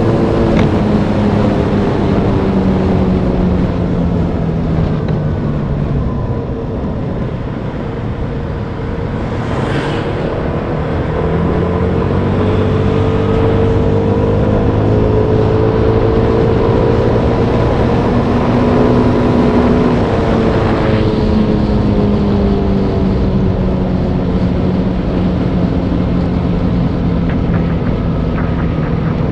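Motorbike engine running on a mountain descent, its pitch slowly falling and rising as the speed changes, over heavy rushing noise.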